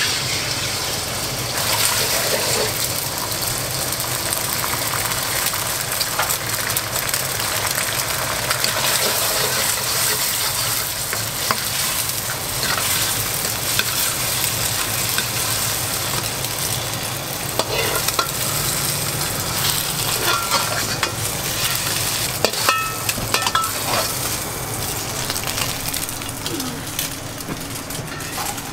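Food sizzling loudly in oil in a wok while it is stirred, with scattered sharp knocks and scrapes of a metal utensil against the pan.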